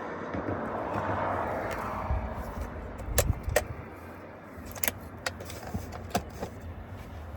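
Inside a car: a low steady rumble, with a rustling hiss over the first two seconds, then about five sharp clicks at uneven intervals.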